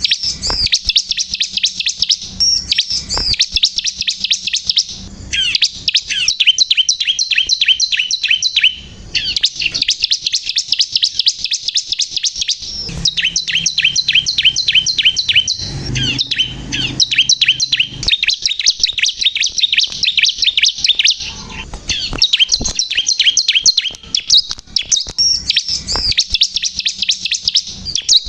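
Bar-winged prinia (ciblek kristal) singing vigorously and almost without pause: long, fast trains of high, sharp chirping notes, broken by brief gaps.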